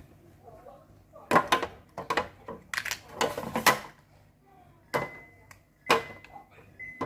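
Kitchen items and containers clattering and knocking, then a fridge's door-open alarm sounding a steady high beep that starts about five seconds in and repeats, because the fridge door has been left open.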